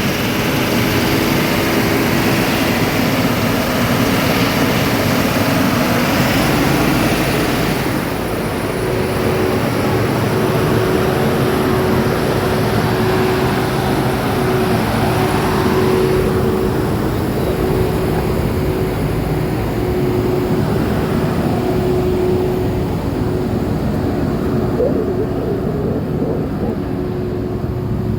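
A vehicle engine running steadily: an even, loud rumble with a constant hum over it. The hissy top of the sound eases off about eight seconds in.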